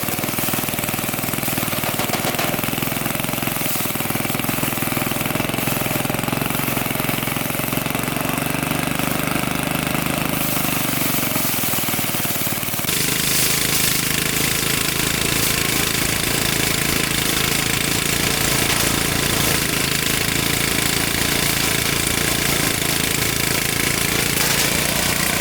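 Engine of rice harvesting machinery running steadily. About 13 seconds in, the sound shifts abruptly to a brighter, slightly louder pitch.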